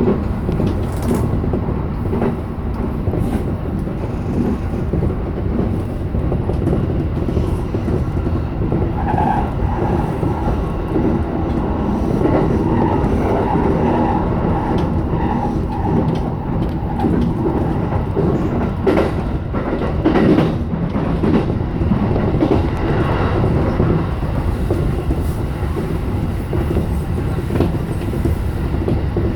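JR E233 series 7000 electric train running at speed, heard from inside the front car: a steady rumble of wheels on rails, with a few sharp clacks from rail joints about two-thirds of the way through.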